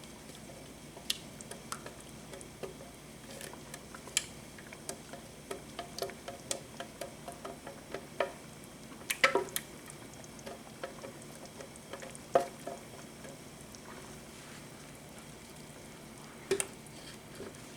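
A utensil stirring ground beef with tomatoes and onions in a pan on the stove: irregular clicks and knocks against the pan over a faint steady sizzle, the loudest knocks about nine and twelve seconds in.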